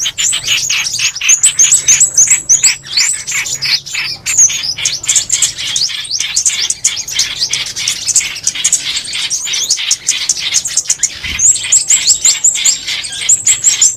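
Recorded songbird calls for lure playback: a dense, continuous stream of rapid, sharp, high chirps, with quick runs of short down-slurred notes repeating every few seconds.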